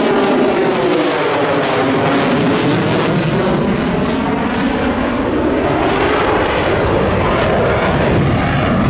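Jet aircraft engine noise as a fighter flies past, with a loud roar whose pitch slides down over the first couple of seconds and climbs again near the end.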